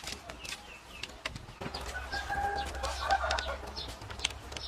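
Birds calling: short repeated chirps, with a longer pitched call from about two seconds in to past the middle.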